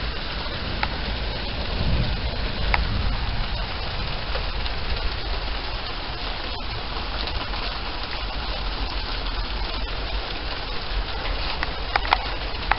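Steady rain falling on a wet paved patio and potted plants, with a few sharper drips, a couple of them near the end.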